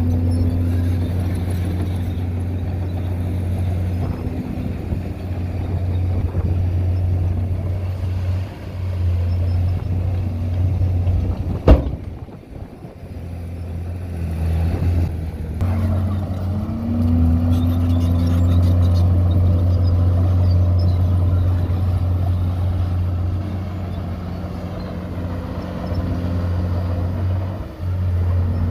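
Heavy diesel engine of earthmoving machinery running steadily with a deep hum. About twelve seconds in comes a single sharp bang, the loudest sound. The engine then drops away for a few seconds before picking up again with a brief rise in pitch.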